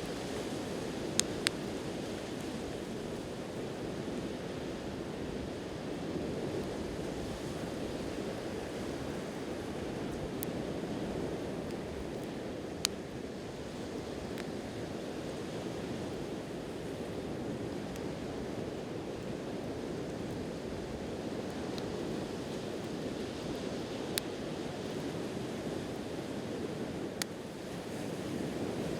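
Steady wash of sea waves on the shore, with a wood campfire giving a few sharp, isolated pops and crackles, two close together about a second in and the rest scattered.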